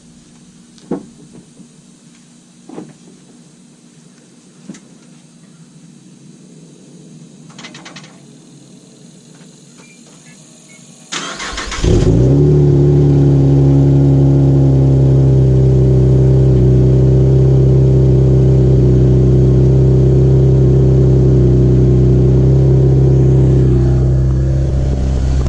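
A few faint knocks, then about eleven seconds in the 2014 Camaro's 3.6-litre V6 is cranked by the starter, catches with a brief flare and settles into a steady idle. This is the first start after an oil change, run to check for leaks.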